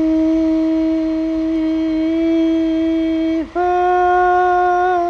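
A voice holding two long, steady notes: the first lasts about three and a half seconds, then breaks off, and a slightly higher note follows.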